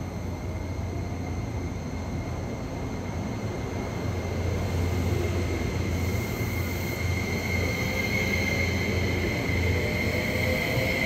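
E261 series Saphir Odoriko electric train rolling slowly along the platform, a steady low hum under a high whine. It grows louder about four seconds in, and faint tones rise in pitch near the end.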